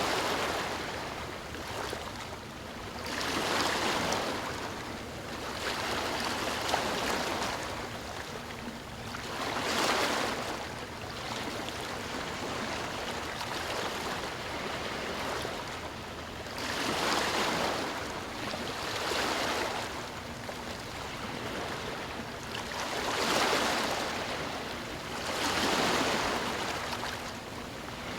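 Ocean waves breaking and washing on a shore, with a swell of surf every few seconds over a steady rush of water.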